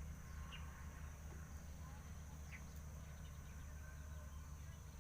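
Outdoor ambience at a pond: a steady high-pitched insect drone over a low rumble, with two short bird chirps, one about half a second in and one about two and a half seconds in.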